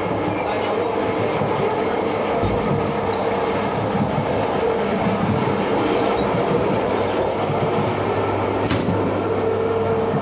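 A regional passenger train running, heard from inside the car: a steady rumble of wheels on rails with a faint steady whine, and a single sharp knock near the end.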